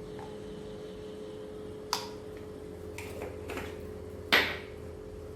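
Spoon clinking against a bowl while spices are added to chicken for a marinade: a sharp clink about two seconds in and a louder, ringing one near the end, with softer taps between. A steady hum runs underneath.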